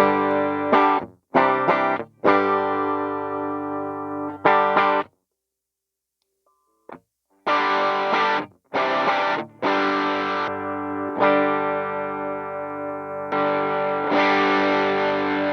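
Electric guitar played through a Demonfx King Spark overdrive pedal, with a distorted tone. It plays short stabbed chords and held chords that ring out. There is a pause of about two seconds near the middle.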